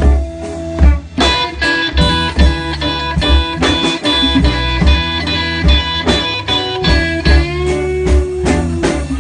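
Live blues band playing an instrumental passage: a guitar lead with bent notes over a steady low beat of bass and drums.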